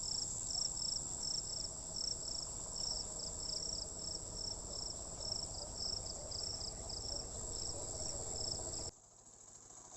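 Crickets calling: a steady high trill with a second, chirping call repeating about twice a second. The sound cuts off suddenly near the end.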